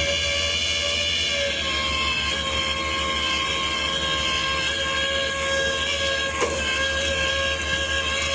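Flatbed tow truck driving at a steady speed: a low, evenly pulsing engine rumble with a steady high whine over it. There is one short click about six and a half seconds in.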